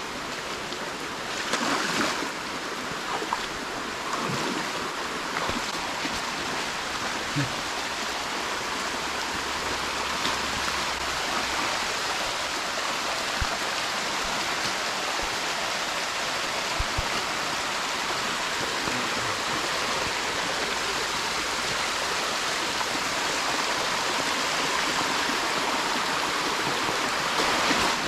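A mountain stream rushing steadily over rocks, with a few faint knocks.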